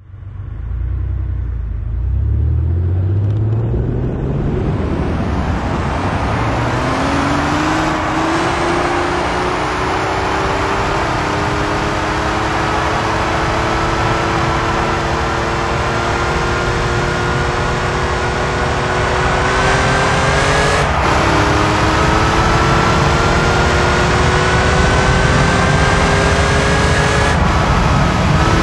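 Air-cooled flat-six of a Porsche 911 (964) pulling through the gears, its note climbing slowly under acceleration, with two upshifts where the pitch drops suddenly, about two-thirds through and again near the end. Road and wind noise run underneath.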